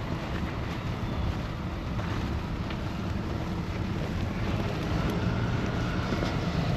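Strong snowstorm wind buffeting the microphone, a steady low rush of noise, with a faint whine in the background partway through.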